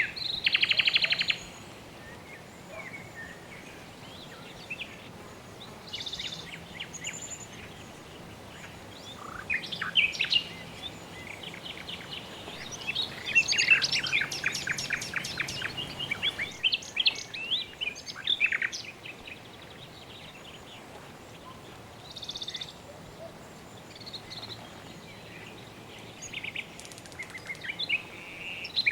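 Several birds chirping and calling, with quick trills, over a steady background hiss; the chirping is busiest in the middle.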